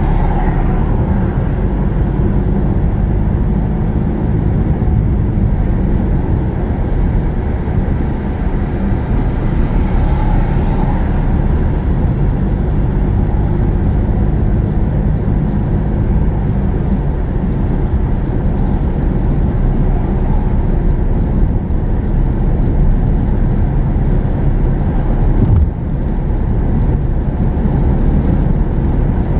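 Car driving on the road, heard from inside the cabin: a steady low rumble of engine and tyre noise. A single short knock comes about 25 seconds in.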